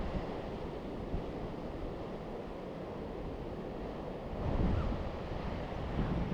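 Steady rush of sea surf and wind, with gusts of wind buffeting the microphone about four and a half seconds in and again near the end.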